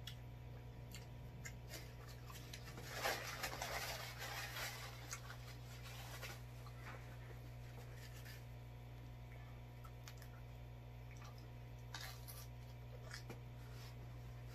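Close-up chewing and crunching of crunchy Little Caesars pizza crust, loudest about three to four and a half seconds in, with scattered small clicks and mouth sounds over a steady low hum.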